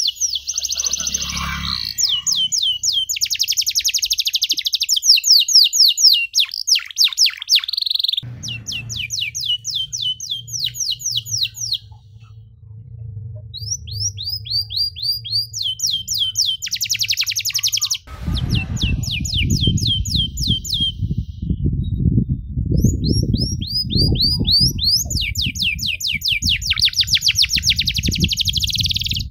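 Domestic canary singing long, fast trills of rapidly repeated down-sweeping whistled notes, the rolls broken by a few short pauses. A low rumbling noise runs under the song in the second half.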